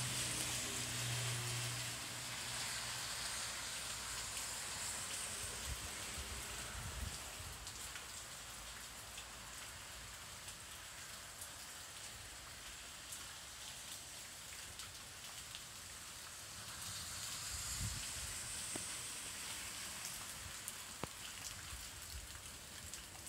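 Steady rain falling during a thunderstorm, a continuous hiss with scattered drops ticking close by. The hiss swells near the start and again about three-quarters of the way through, and a low hum fades out in the first couple of seconds.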